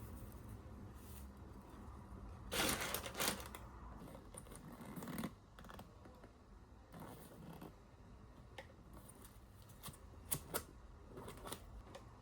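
Light handling sounds of small objects: a short flurry of clicks and rustling about two and a half seconds in, a smaller one a couple of seconds later, then scattered single light taps and clicks.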